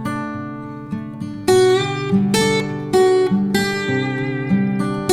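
Slow, calm instrumental music of plucked acoustic guitar notes. Soft held notes give way about a second and a half in to louder single notes, plucked roughly every two-thirds of a second and left to ring.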